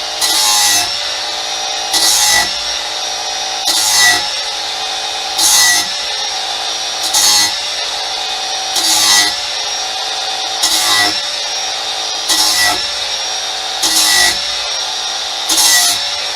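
Lawn mower blade being sharpened on a running power grinder: a steady motor whine with the edge drawn across it in even, repeated strokes, a louder grinding surge about every second and a half to two seconds.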